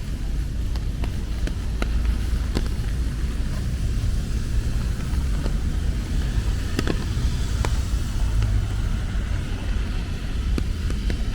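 Steady rain hiss with scattered sharp drip ticks, over a continuous low rumble.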